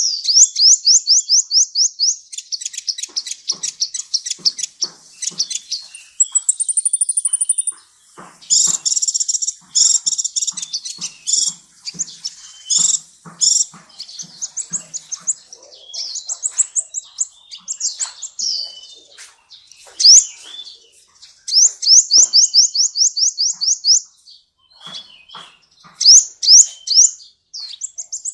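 Kolibri ninja sunbird singing, a tutor recording for songbirds: loud, high, fast twittering trills and rapidly repeated chirps in bursts separated by short pauses, with one thin high whistle a few seconds in.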